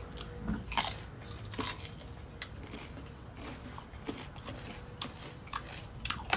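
Crunching and chewing of crisp mango, with sharp crackling bites at irregular moments, a few each second at times.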